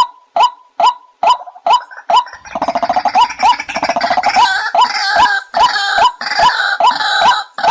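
White-breasted waterhen calling: a steady run of loud, repeated croaking notes a little over two a second, joined from about two seconds in until near the end by a rapid gurgling chatter with higher notes over it.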